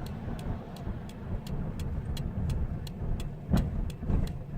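Isuzu D-Max's 3,000 cc diesel engine running with a steady low rumble, with a light regular ticking about four or five times a second. One louder thump comes about three and a half seconds in.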